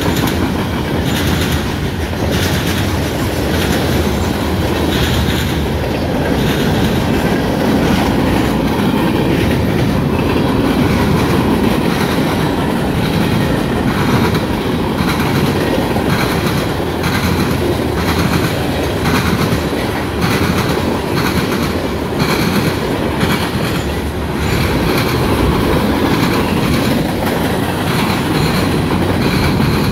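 Freight cars of a long mixed freight train rolling past: a steady rumble of steel wheels on rail, with a repeated clickety-clack as each wheel set crosses the rail joints.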